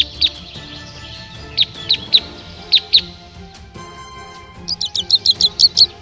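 A bird calling in short, sharp, downward-sweeping chirps, spaced out at first, then a quick run of about eight chirps a second starting about two-thirds of the way in. Background music with sustained notes plays underneath.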